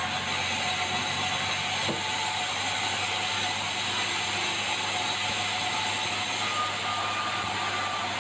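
Sawmill machinery running: a steady, even mechanical noise, mostly high-pitched.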